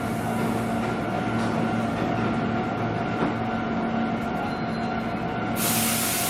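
Hankyu electric train at a station platform, its electrical equipment giving a steady hum. About five and a half seconds in, a loud hiss starts suddenly.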